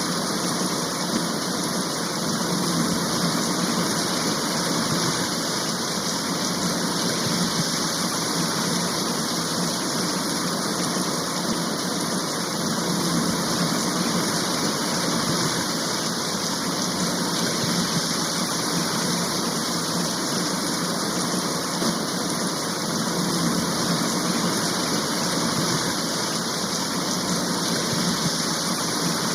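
Heavy rain shower falling steadily, an even hiss with no breaks.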